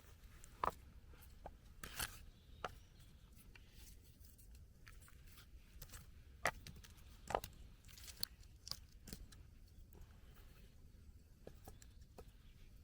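Dry twigs and sticks snapping and cracking: a dozen or so sharp, irregular cracks with quiet gaps between them.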